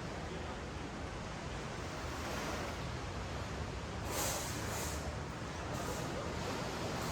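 Ocean surf washing up a sandy beach: a steady rush of water with one wave surging louder about four seconds in.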